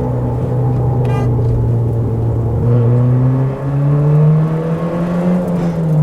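Car engine pulling along a mountain road, its note steady at first, then stepping up a little past halfway and falling away near the end. A brief high ticking sound comes about a second in.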